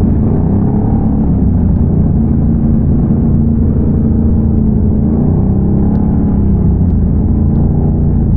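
Can-Am Renegade ATV's big-bore V-twin engine running while riding, its pitch rising and falling a little with the throttle, with a noticeable dip and rise about five to six seconds in.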